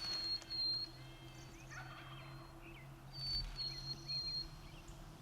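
Wild turkey gobbling, twice: once at the start and again about three seconds in.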